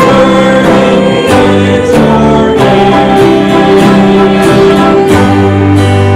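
Worship band music: strummed acoustic guitar over sustained chords that change every second or so.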